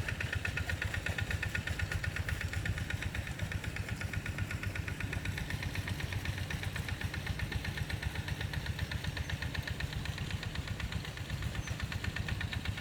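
Small engine of a walk-behind rice-field tractor running steadily, with a rapid, even beat.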